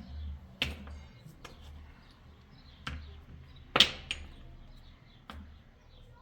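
A series of sharp knocks or strikes at irregular intervals, about seven, the loudest a little before four seconds in, with a low background hum.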